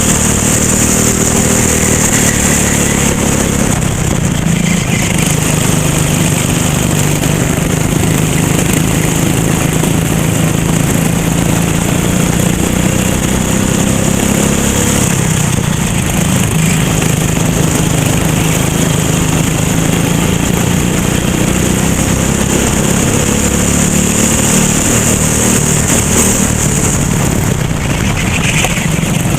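Racing kart engine running hard through a lap, its pitch rising and falling as it accelerates and slows for corners.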